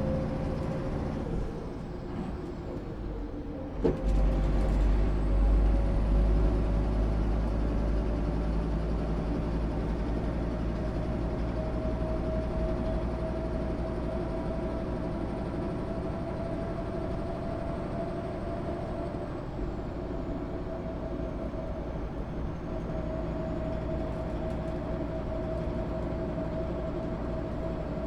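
MAN SÜ 272 bus running, its engine and drivetrain giving a steady low rumble with a whine on top. A sharp knock comes about four seconds in, the rumble grows louder right after, and the whine then climbs slowly in pitch as the bus gathers speed.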